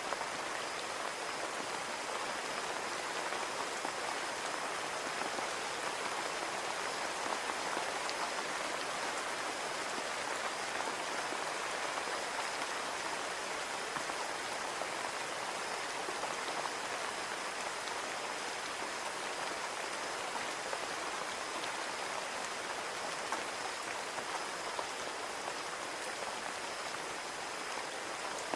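Steady rain falling on a window pane, an even hiss of drops that does not change.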